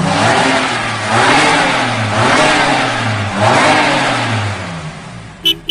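Car engine sound effect revving in repeated swells about once a second, the pitch rising and falling each time, over a steady hiss. A short high beep sounds near the end.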